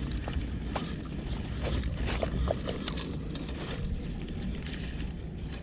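Low steady rumble of wind on the microphone, with scattered small clicks and taps.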